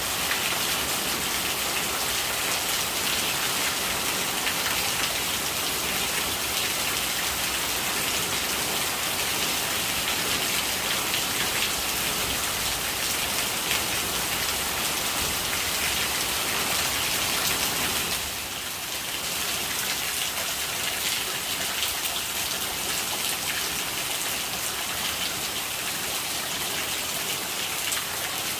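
Steady rain, a dense patter of drops with no let-up, dipping briefly in loudness about two-thirds of the way through.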